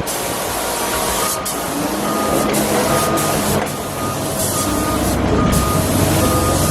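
Vehicle back-up alarm beeping, short beeps at one steady pitch repeated over the noise of a running engine.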